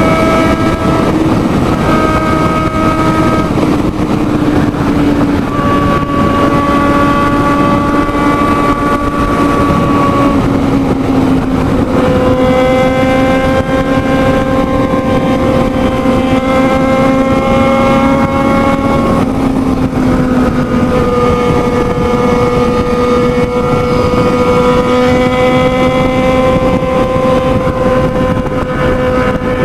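Sport motorcycle engine running hard at high speed, heard from on board. Its pitch holds steady, then steps to a new note several times.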